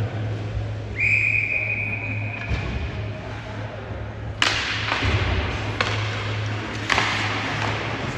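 A referee's whistle blows once in an ice hockey rink, a steady shrill note about a second and a half long. A few seconds later come three loud, sharp bangs, over a constant low hum.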